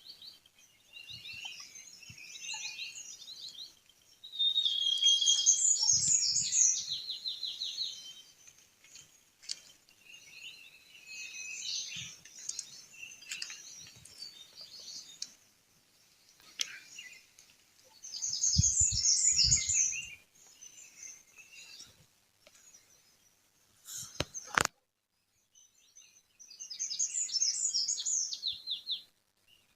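Songbirds singing and chirping, with loud bursts of rapid, trilled song phrases about four, eighteen and twenty-seven seconds in and softer chirps between. A sharp click comes about twenty-four seconds in, followed by a brief silence.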